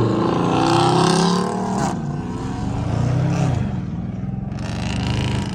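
Car engine revving, its pitch climbing and falling back twice.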